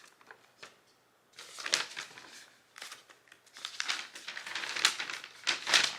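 Plastic packaging crinkling and rustling as it is handled and pulled away, in irregular bursts, busiest in the second half.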